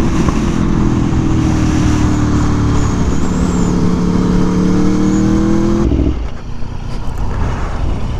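Aprilia Tuono V4 1100's V4 engine, through an SC Project CR-T exhaust, running at part throttle over wind rush, its pitch sliding slowly down and then holding. About six seconds in the engine note drops away suddenly as the throttle closes.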